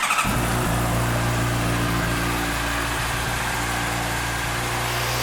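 2008 Honda CBR600RR's 600 cc inline-four engine starting right at the beginning and settling into a steady idle.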